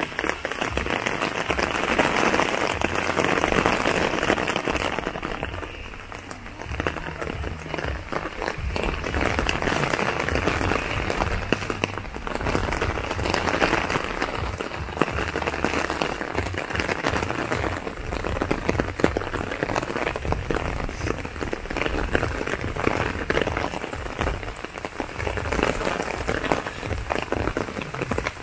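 Steady rain, a dense patter of drops, with a short dip in loudness about six seconds in.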